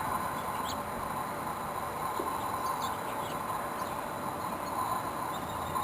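Steady hum of a great many bees foraging on a flowering winterberry holly. Faint short bird chirps sound now and then over the hum.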